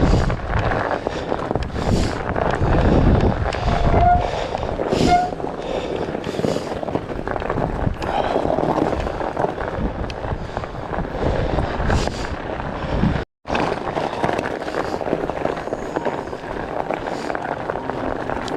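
Wind buffeting the microphone during a fat bike ride, a steady rush with heavy low rumble, with two short squeaks about four and five seconds in. The sound drops out for an instant a little past the middle.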